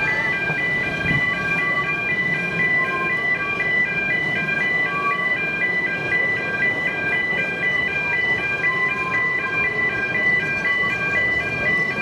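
Level crossing warning alarm sounding continuously: two high electronic tones alternating rapidly, several times a second, over a background of street noise.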